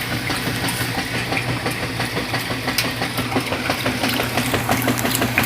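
A 1995 top-loading washing machine running with its lid open, agitating: a steady motor hum with a fast, even churning rhythm.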